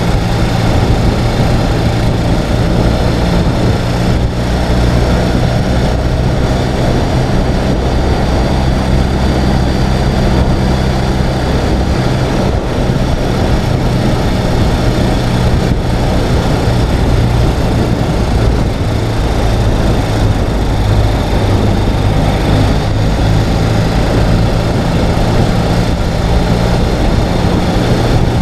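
Ural sidecar motorcycle's air-cooled flat-twin engine running steadily while riding along, its note shifting slightly now and then, over a wash of road and air noise.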